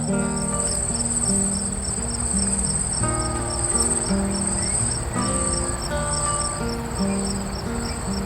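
An insect keeps up a high-pitched, pulsing trill over background music carrying a simple melody of held notes.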